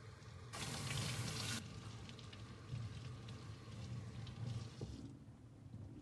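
Water running briefly from a tap, loudest for about a second near the start, followed by quieter wet handling sounds with small clicks, as of a damp cloth being worked.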